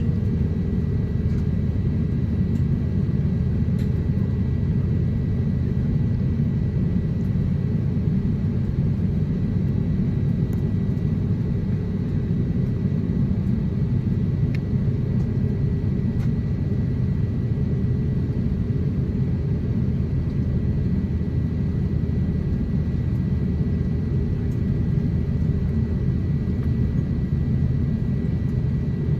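Steady low rumble inside the cabin of an Airbus A350-900 taxiing, its Rolls-Royce Trent XWB engines at idle thrust, with a faint steady high whine.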